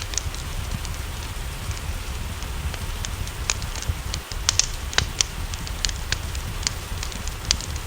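Wood fire crackling, with sharp irregular pops and snaps, over a steady hiss of rain and a low rumble. A cluster of louder pops comes in the middle.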